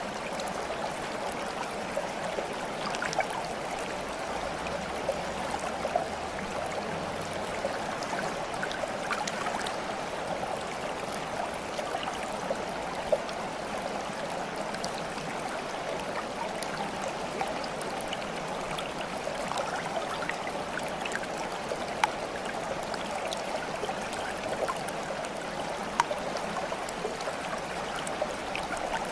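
Water flowing steadily, with a few brief small splashes or drips standing out now and then.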